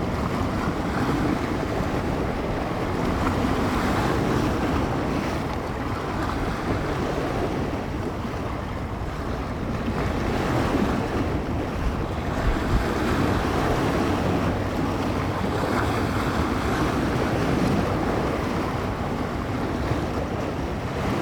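Bay waves washing against the shore, the wash swelling and easing every few seconds, with a windy evening's gusts buffeting the microphone in a low rumble.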